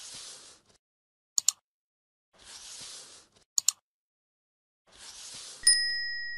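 Intro sound effects: short swishes of noise about every two and a half seconds, sharp double clicks between them, and near the end a bright struck ding that rings on.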